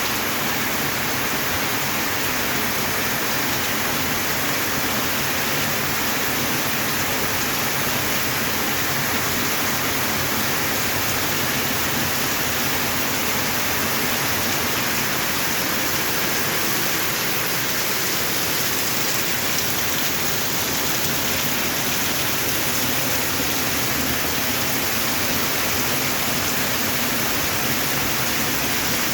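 Steady monsoon rain pouring down, an even hiss that holds without a break.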